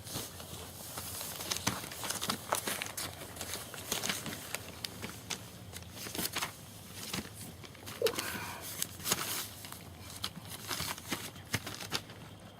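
Young German Shepherd puppies moving about, making irregular rustling and crinkling with many small clicks and scratches. A short squeak comes about eight seconds in.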